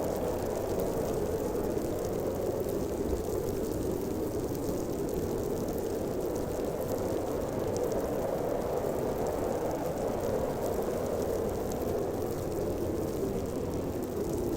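Howling winter storm wind: a steady rushing roar that swells and eases slightly, with a few faint ticks over it.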